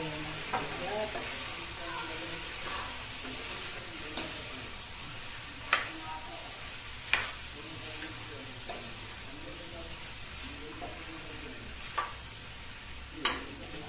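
Vegetable sabzi sizzling in a kadhai while a spatula stirs it, mixing in the final spices (kasuri methi and garam masala). A steady frying hiss, broken by several sharp clacks of the spatula against the pan.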